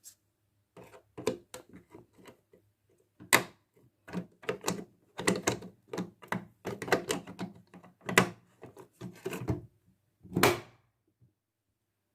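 Washing machine filter parts being handled: an irregular run of clicks and knocks, with the loudest a few seconds in, again later, and a last one shortly before the end.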